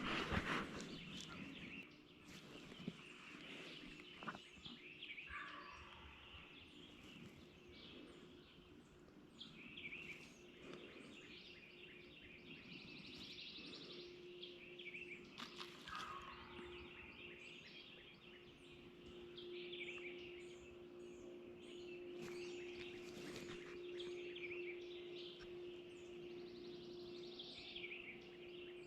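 Faint woodland birdsong: songbirds calling and trilling repeatedly. A faint steady low hum comes in about halfway through.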